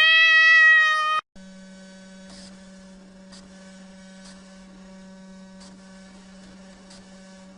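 A cat gives one long, loud meow that rises and then holds steady before cutting off abruptly about a second in. After that, a steady low electrical hum with faint ticks about once a second.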